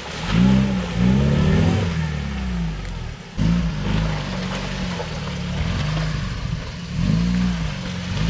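UAZ off-road vehicle's engine revving up and down repeatedly under load as it pulls through deep, muddy forest ruts with its differential locks engaged. After about three seconds it settles into a steadier pull, then swells again near the end.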